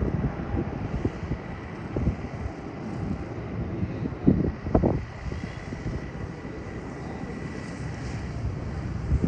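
Airliner engines running, heard through gusty wind buffeting the microphone, with a faint steady high whine lasting several seconds in the middle.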